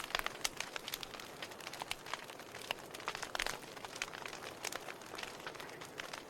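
Wood fire burning in a fireplace: irregular crackles and sharp pops over a steady hiss of flames.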